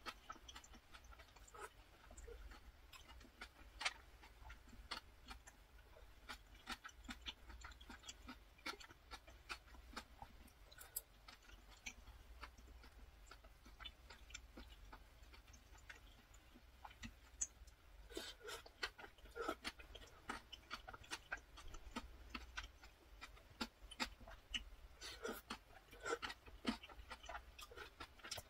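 Close-miked eating sounds: chewing mouthfuls of chewy jjolmyeon noodles with cucumber, a steady run of small wet mouth clicks. The clicks come thicker about two-thirds of the way through and again near the end.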